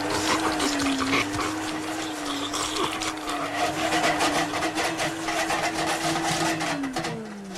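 Vacuum cleaner motor running at a steady hum with a busy rattling and clattering over it. Near the end the motor winds down in pitch and then stops abruptly.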